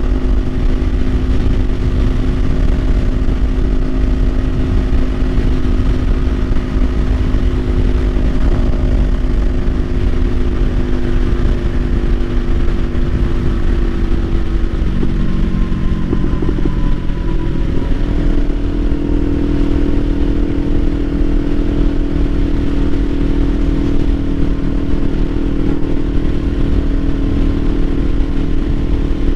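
Kawasaki Ninja 500's parallel-twin engine running at steady cruising revs under heavy wind noise on the microphone. Between about 15 and 18 seconds in, the engine note shifts and then settles at a new steady pitch.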